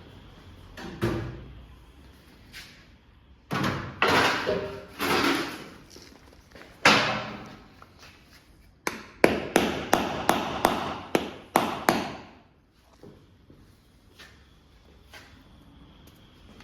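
Metal knocks and clatter from workshop tools and parts being handled, with a quick run of sharp strikes about two-thirds of the way through.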